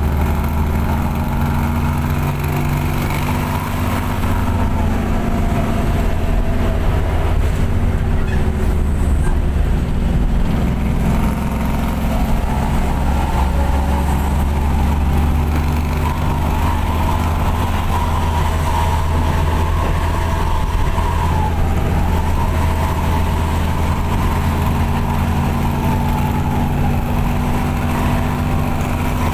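Mitsubishi bus engine fitted with a 'serigala' (wolf) aftermarket exhaust, running steadily while the bus drives, heard on board. Its note glides down and back up a few times.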